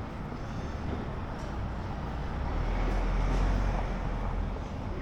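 Street traffic with a motor vehicle passing close by: a low rumble swells to its loudest about three and a half seconds in, then fades.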